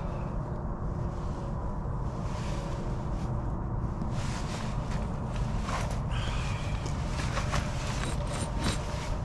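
Steady low rumble with scattered sharp crackles and snaps in the second half, typical of a wood fire burning in a shelter.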